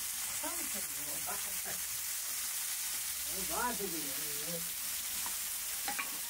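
Potato and tomato slices sizzling as they fry on a wide flat metal pan over a wood fire, a steady hiss, with a voice speaking briefly twice.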